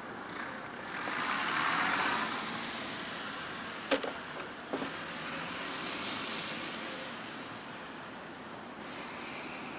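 A vehicle passing by: a rush of noise that swells about two seconds in and slowly fades, with a softer swell later. A sharp click about four seconds in and a fainter one just before five.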